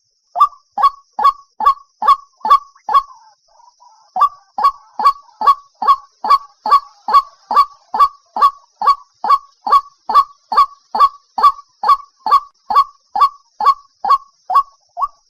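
White-breasted waterhen calling: a long run of loud, evenly repeated notes, a little over two a second, broken by a short pause about three seconds in. This is the call used as a lure to draw the birds in.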